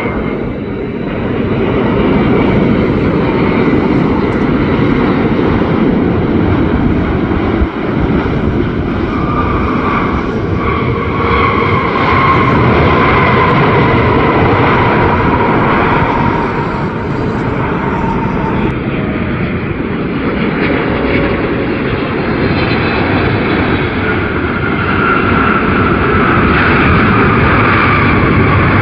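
Jet airliner passing low on landing approach: a loud, steady engine rush with high whining tones that slowly fall in pitch as it goes by.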